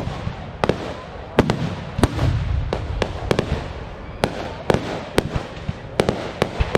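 Aerial fireworks display going off: a rapid, irregular run of sharp bangs and crackles, about two or three a second, over a low rumble that swells around two seconds in.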